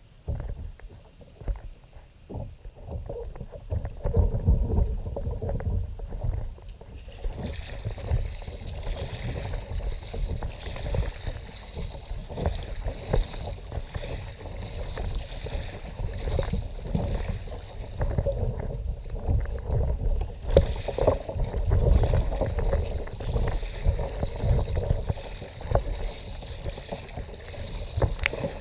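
Kayak moving on the water, with water splashing and sloshing along the hull and wind buffeting the microphone in an uneven low rumble. A steady hiss joins about a quarter of the way in.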